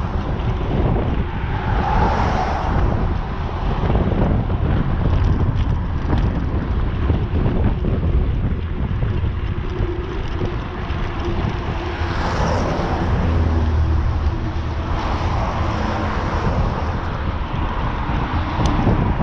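Wind buffeting the microphone of a camera riding along on a bicycle: a loud, continuous rumble with gusts that swell every few seconds.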